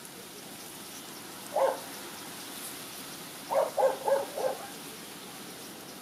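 A bird calling: one short low note, then about two seconds later a quick run of four, over a steady background hiss.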